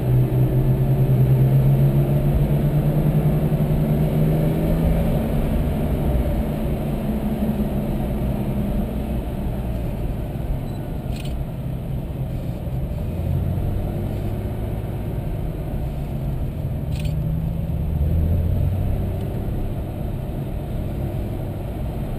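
Porsche engine running at an easy parade-lap pace, its pitch climbing slightly over the first few seconds and swelling again briefly later on. Two short clicks come partway through.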